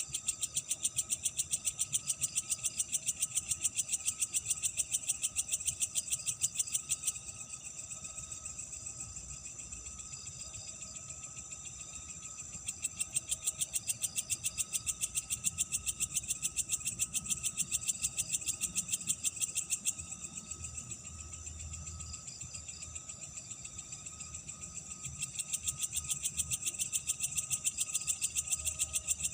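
Night insects chirping in rapid, high-pitched pulse trains that come in three bouts of about seven seconds each, over a fainter steady insect trill.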